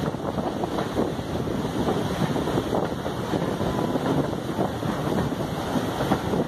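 Wind buffeting the microphone held out of a moving train carriage's window, over the steady running noise of the coach on the track.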